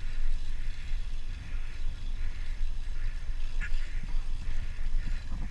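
Wind buffeting the microphone of a rider on a moving bicycle, a steady low rumble with a light hiss of tyre and trail noise, and one brief sharp high click about three and a half seconds in.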